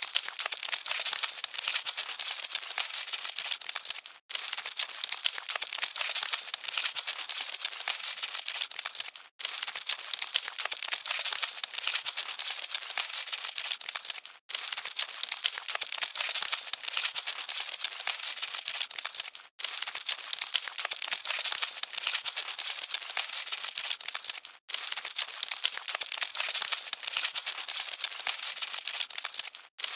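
Cockroaches scuttling: a dense, dry crackling and scratching of many tiny ticks, looped so that it breaks off briefly and restarts about every five seconds.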